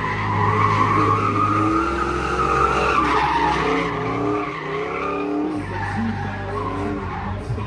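A drift car sliding with its tyres squealing, the engine revving up and down through the slide.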